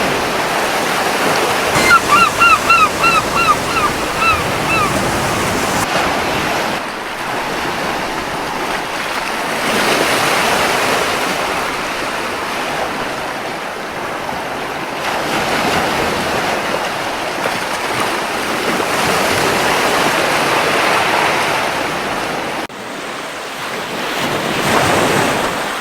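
Gentle ocean surf washing onto a beach, swelling and easing every few seconds. About two seconds in, a seagull gives a quick run of about eight short calls.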